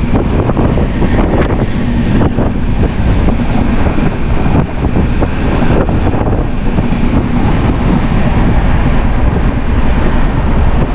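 Express passenger train running, heard from on board: a loud, steady rumble with wind buffeting the microphone, and a few sharp knocks in the first couple of seconds.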